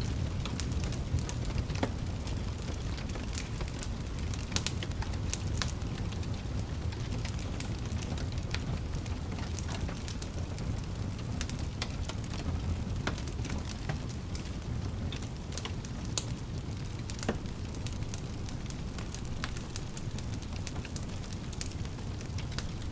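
Wood fire crackling and popping in a fireplace: irregular sharp snaps over a steady low rumble of the flames.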